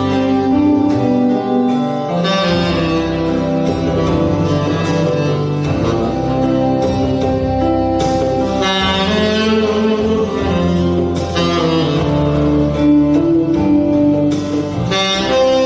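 Saxophone playing the melody in long held notes over a backing accompaniment.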